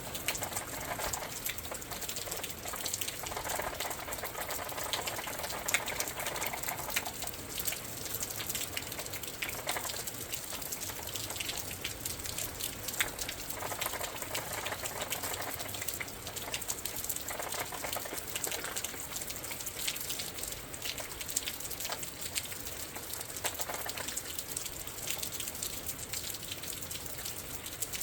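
Rain and wind outside a window at night: a steady patter of raindrops with many small ticks, broken by several swells of louder rushing as gusts of wind drive the rain.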